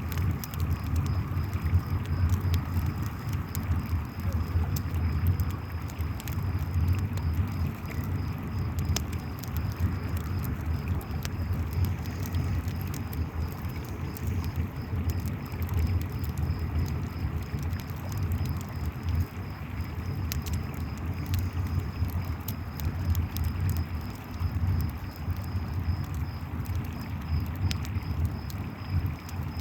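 Campfire crackling with scattered sharp pops over the steady low rush of a flowing river, while crickets chirp in a continuous high, pulsing trill.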